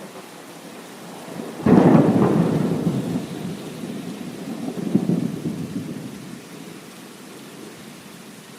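A thunderclap cracks suddenly under steady heavy rain, then rumbles on, swelling again and dying away over several seconds.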